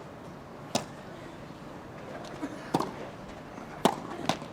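Tennis ball struck by racquets in a rally on a grass court: three sharp hits, the second about two seconds after the first and the third about a second later, with fainter knocks from the ball bouncing in between.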